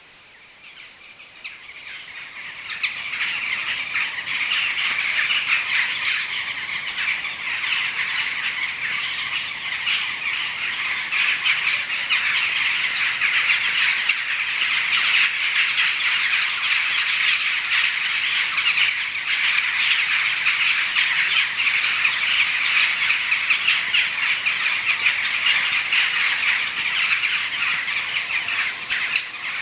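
A large flock of birds calling all at once in a dense, unbroken chorus of many overlapping calls, swelling up over the first three seconds and then holding steady.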